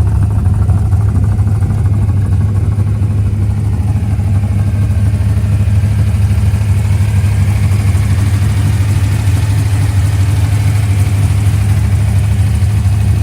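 Big-block V8 of a 1969 Plymouth Road Runner pro street car running steadily at idle, loud and unchanging throughout.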